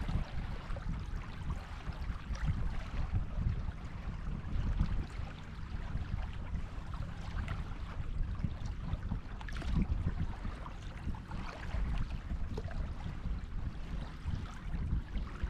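Sea waves washing on a beach in a steady surf hiss, with wind buffeting the microphone in an uneven low rumble.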